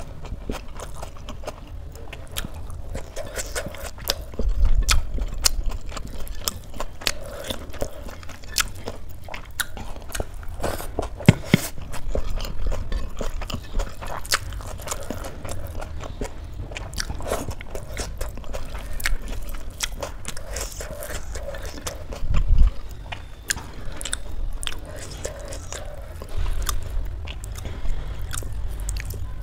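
Close-miked eating sounds: a person chewing mouthfuls of rice and curry, with wet mouth clicks and crisp crunches scattered throughout.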